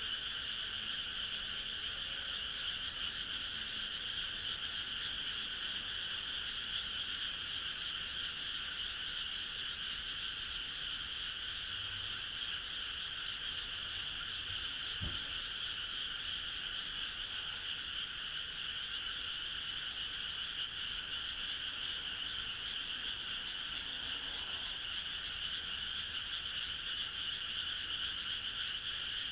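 Dense, steady chorus of calling frogs, a continuous high-pitched trilling with no break, and one brief low thump about halfway through.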